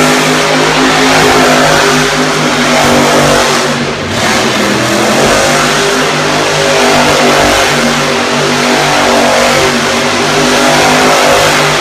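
Monster truck's supercharged V8 engine revving hard and holding high revs, the pitch rising and falling with the throttle, with a brief lift off the throttle about four seconds in.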